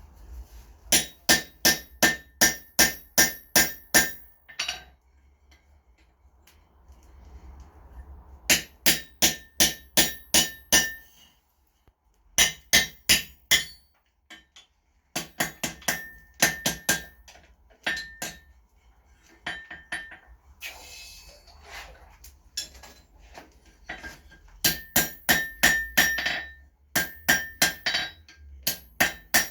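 Blacksmith's hammer striking on the anvil in quick runs of about three or four blows a second, with short pauses between runs, each blow ringing: punching the rivet hole through a forged tong half.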